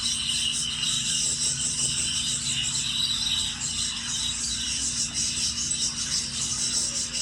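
Budgerigar flock chattering and warbling continuously, many birds at once in a dense high-pitched twitter, over a steady low hum.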